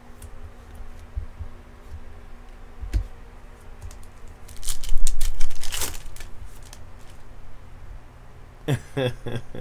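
2020 Bowman baseball cards being flipped and slid against one another in the hands, with a single click about three seconds in and a louder stretch of card rustling about five seconds in. A man's voice comes in briefly near the end.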